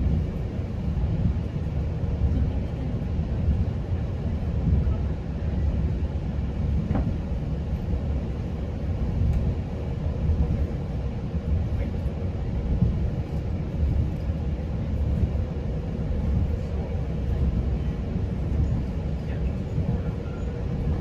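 Steady low rumble of a GO Transit bilevel passenger coach running along the track, with a faint steady hum and a few light ticks over it.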